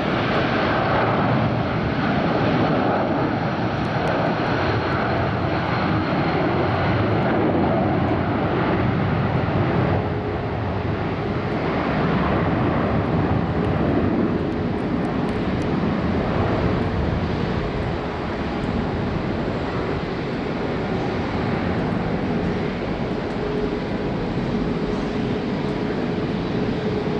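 Four jet engines of a Boeing 747-400 running loudly and steadily, a dense wash of jet noise with a faint steady whine in it.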